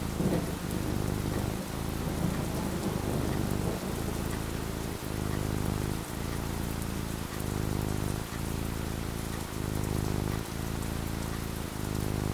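Steady rain falling, with a low thunder rumble underneath.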